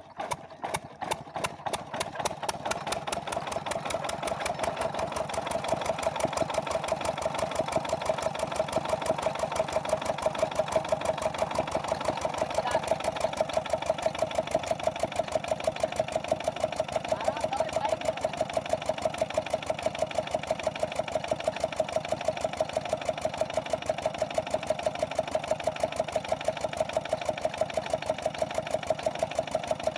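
8 hp single-cylinder Lister-type diesel engine of a water-pumping set starting up. Its beat quickens and grows louder over the first few seconds, then it runs at a steady, even thumping beat.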